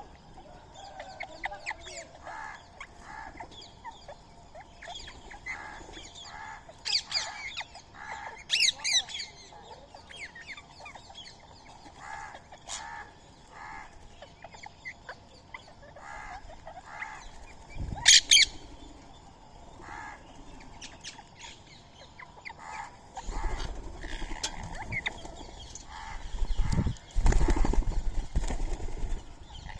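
Birds calling at a feeding spot: a steady series of short repeated calls, with a few shrill high squawks, and louder wing flapping in the last few seconds.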